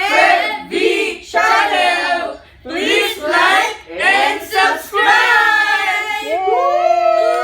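A high voice sings a melody in short phrases, most likely an intro song. Near the end, several tones glide upward and then hold.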